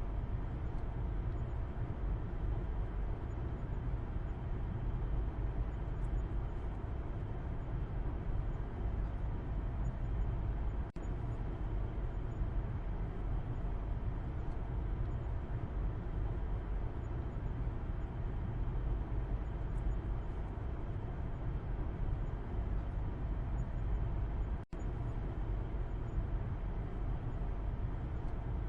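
Steady low road-and-engine rumble of a moving car heard inside the cabin from the back seat, even and unchanging, with two split-second gaps in the sound, one about eleven seconds in and one near the end.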